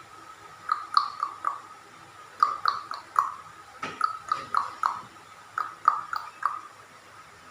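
A parrot making short, sharp repeated notes in quick groups of three to five, four groups in all, the first starting under a second in.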